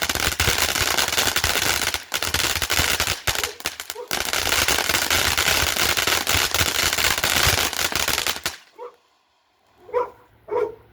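Ground firework fountain spraying with dense, rapid crackling. It dips briefly twice and cuts off suddenly about eight and a half seconds in as it burns out.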